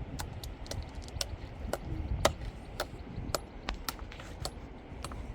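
A run of sharp, irregular clicks and taps, roughly three a second, with one louder tap a little past two seconds in, over a low rumble.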